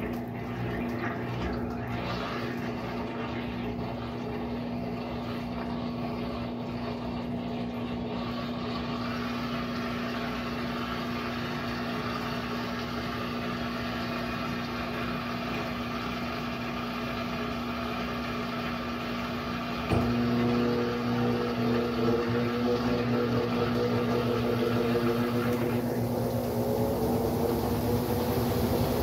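Brastemp Sexto Sentido 8 kg washing machine running with a steady hum. About two-thirds of the way through there is a click, it gets louder, and the motor winds up with a slowly rising whine.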